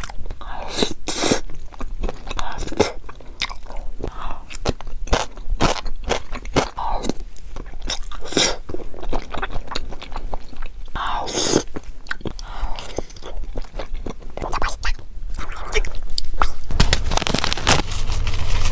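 Close-miked chewing and crunching of food, many sharp crisp clicks with a few louder crunchy bites.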